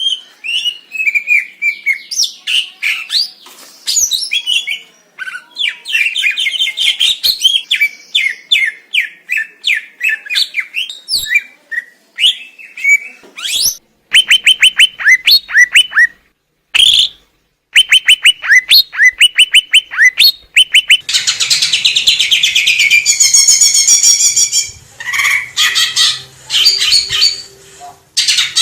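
Green leafbird (cucak ijo) singing: a fast, varied stream of sharp chirps, whistled phrases and rapid trills, with two brief breaks about 14 and 17 seconds in and a dense harsh chattering stretch from about 21 to 24 seconds.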